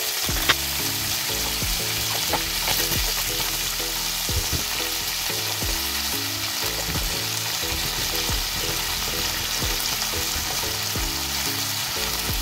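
Shrimp and garlic sizzling in a nonstick frying pan, stirred with a wooden spatula that gives occasional scrapes and taps. Low background music notes run underneath.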